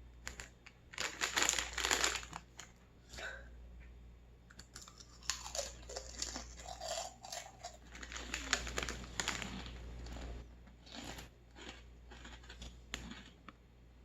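Crunchy Flamin' Hot Funyuns onion-flavoured rings being bitten and chewed close to the microphone. There are a couple of loud crunches in the first two seconds, then long runs of rapid crackling crunches.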